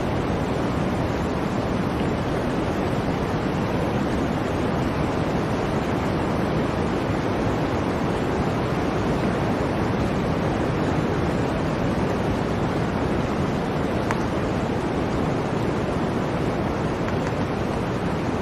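Blizzard wind blowing, an even rushing noise that holds steady without gusting.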